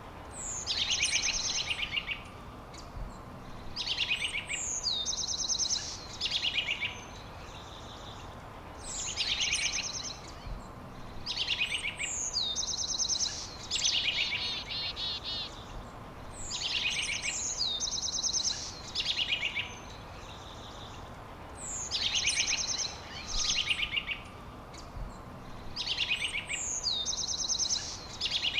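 A songbird singing a short phrase of rapid high trills and a quick down-slurred whistle, repeated about every two seconds, over a steady background hiss.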